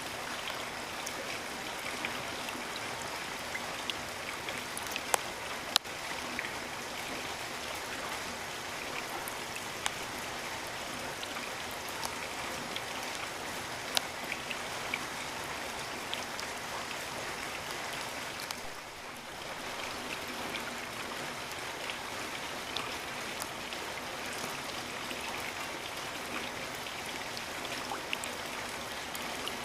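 Steady rainforest rain, an even hiss of falling rain with scattered louder individual drops hitting close by. It dips briefly a little quieter about two-thirds of the way through.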